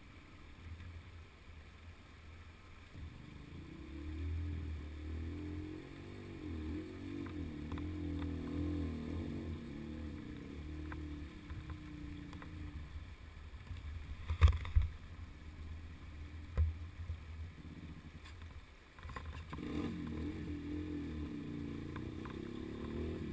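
Off-road vehicle engine revving up and down under load as it works along a rough trail, with two sharp knocks about two-thirds of the way through, then a second stretch of revving near the end.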